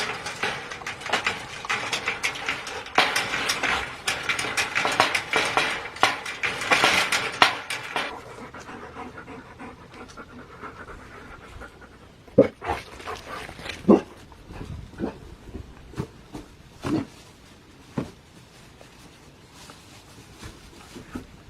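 A dog panting hard and fast for about eight seconds, then quieter, with a few short whines.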